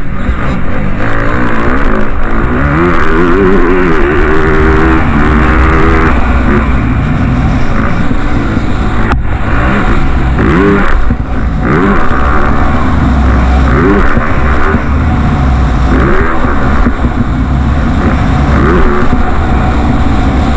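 Motocross bike engines revving hard, rising in pitch again and again as they accelerate, over a constant low rumble.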